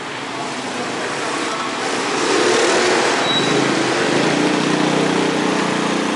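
Motor vehicle engine running under heavy road and wind noise, growing louder about two seconds in as the engine's tone comes through and settles slightly lower.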